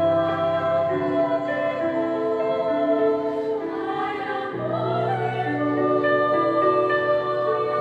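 Choir singing a slow choral song in held chords with accompaniment. The low bass notes drop out about a second in and come back just past the middle.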